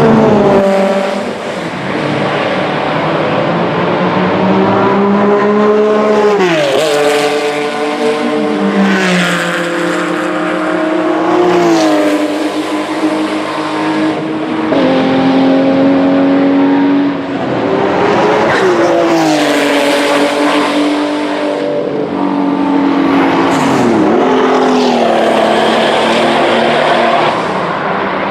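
Several vintage race car engines running hard at full throttle, more than one at a time. Their pitch climbs steadily and then drops sharply about every six seconds.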